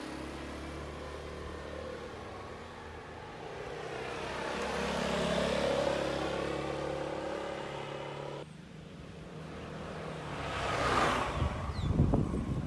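Motor vehicle engine running, swelling and rising in pitch around the middle, then cutting off abruptly about two-thirds of the way in. A vehicle then swishes past, loudest near the end.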